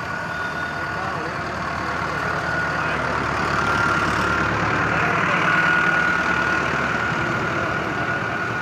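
Tractor engine running steadily, growing a little louder towards the middle and then easing off.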